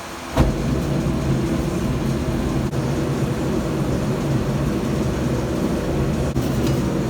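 A shop machine switches on suddenly about a third of a second in and then runs steadily, a low motor hum under a broad hiss.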